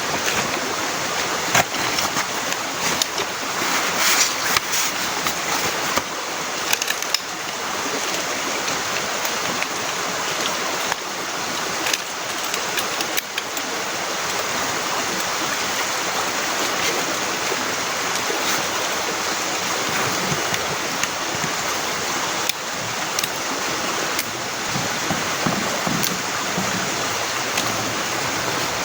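Heavy rain falling steadily, a dense hiss with many sharp drop impacts scattered through it.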